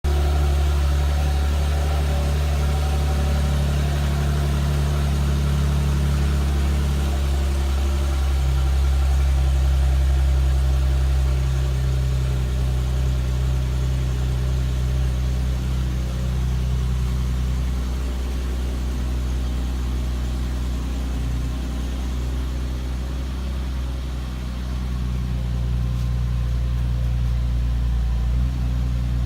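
Infiniti G37S's 3.7-litre V6 running through its stock exhaust, idling steadily with a low hum.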